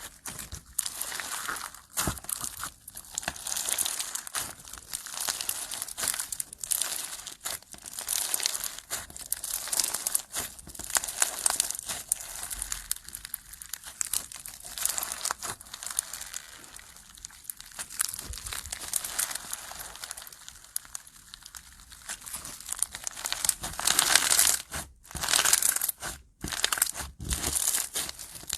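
Slime being squished and stretched by hand, giving a dense run of crackles and small pops, louder for a few seconds near the end.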